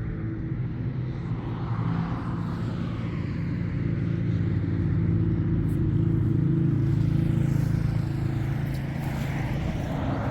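An engine running steadily, growing a little louder in the middle.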